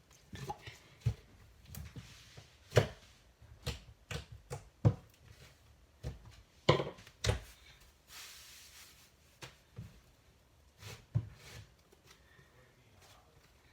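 Hands working butter slime, giving irregular sticky clicks and pops as it is pressed and pulled, with a softer squish lasting about a second near the middle.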